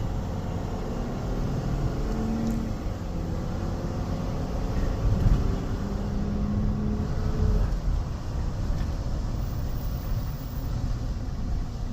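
Tow truck driving on the road: a steady low rumble of engine and road noise, with faint shifts in engine pitch.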